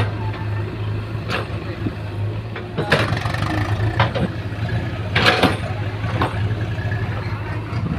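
Diesel engine of a JCB 3DX backhoe loader running steadily with a low hum while it loads mud, with about six sharp clanks and knocks from the working machine spread through it.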